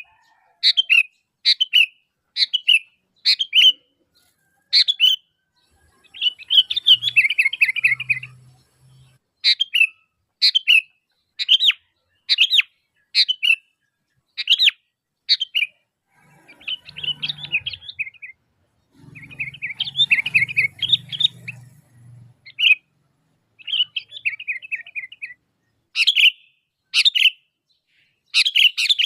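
Sooty-headed bulbul (kutilang) calling: short, sharp notes repeated about once a second, broken several times by longer chattering phrases of one to three seconds.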